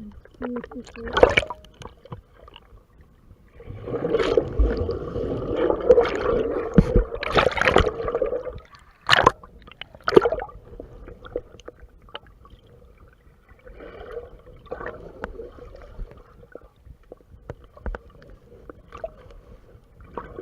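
Water sloshing and gurgling against the camera, with a few seconds of heavy splashing starting about four seconds in, then two sharp knocks and quieter lapping water.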